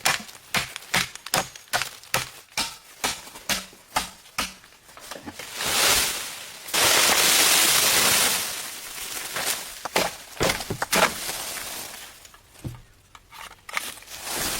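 Bamboo being chopped with a blade in quick, sharp strokes, about three a second. Near the middle there is a loud rasping noise lasting about two seconds, then a few more strikes.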